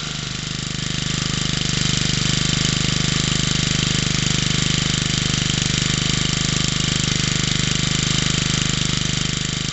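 Small 50cc BSA stationary engine, directly coupled to a dynamo, running steadily and nicely.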